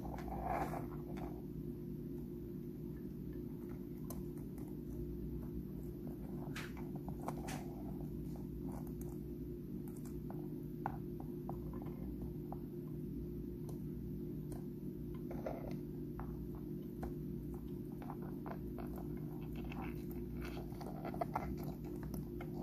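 Pet crab crunching and picking at dried shrimp: scattered small clicks and crackles, irregular and spread out, over a steady low hum.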